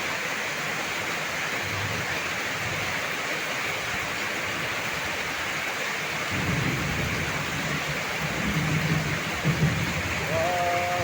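Heavy rain falling steadily, with a low rumble of thunder that sets in about six seconds in and swells a couple of times near the end.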